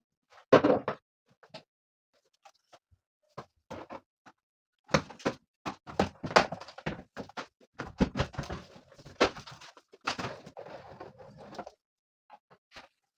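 A run of knocks, clacks and rustles of household things being handled and set down, as in cleaning out a wardrobe or drawers. There is a loud cluster about half a second in, then a busier stretch of knocks and rustling from about five seconds until near the end.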